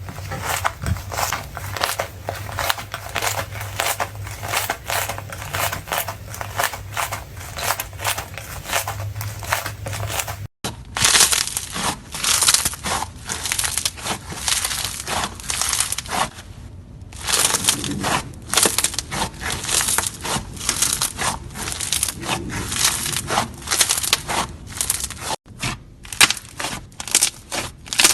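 Crisp crunching and crackling from a material being crushed: a dense, rapid run of small snaps and crackles. It cuts off abruptly twice, about ten seconds in and near the end, as one clip gives way to the next. A low hum lies under the first part.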